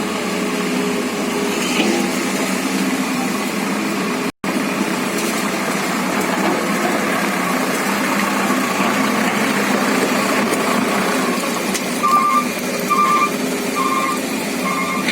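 Excavator diesel engine running steadily. Near the end a reversing alarm starts beeping, four short beeps a little under a second apart.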